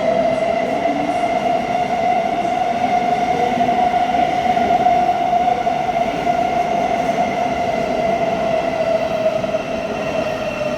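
Thameslink Class 700 electric train with a steady high-pitched electric whine over the continuous rumble of the train.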